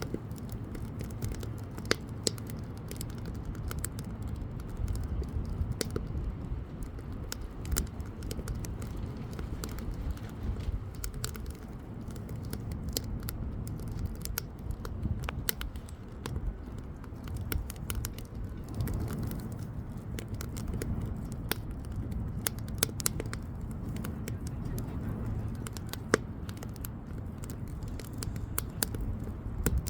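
Firewood bonfire burning, with scattered sharp crackles and pops over a steady low rumble.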